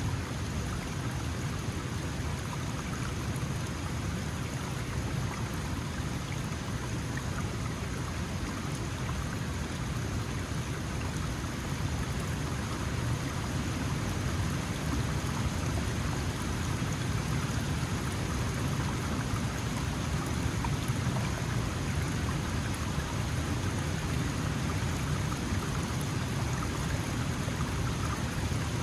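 Small mountain stream flowing steadily, an even rush of water with a low burble.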